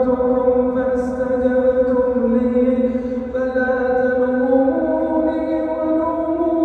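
A man's voice chanting Quran recitation in long held melodic notes. The pitch steps down about two seconds in and rises again near the end.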